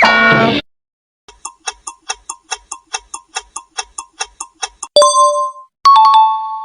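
Game-show style sound effects: a short falling tone, then a quick clock-like ticking at about five ticks a second, ending in two bell-like dings.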